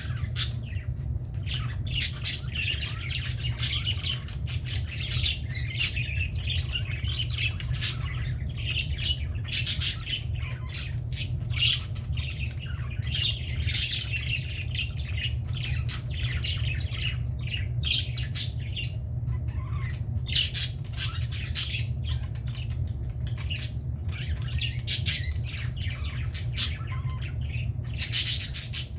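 Several budgerigars chattering and squawking without pause, a dense run of short, high calls over a steady low hum.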